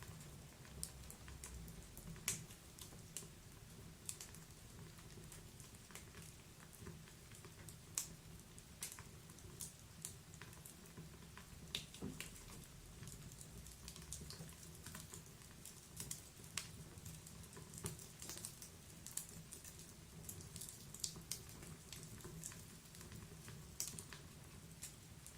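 Wood fire in a fireplace crackling: irregular sharp snaps and pops, several a second, over a faint low rumble.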